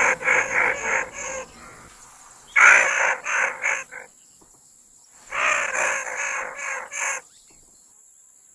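Mongoose calling: three bursts of rapid repeated calls, about five a second, with short pauses between the bursts.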